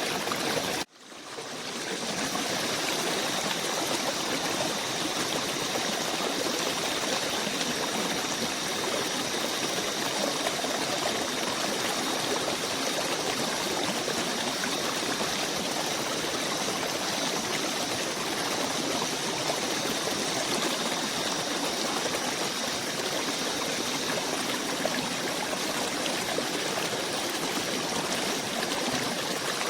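Small forest stream running steadily. About a second in the sound cuts out abruptly and fades back in over a second or so.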